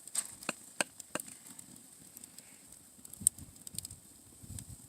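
Wood fire crackling: irregular sharp pops and snaps, several in the first second and the loudest about three seconds in, over a faint low rumble.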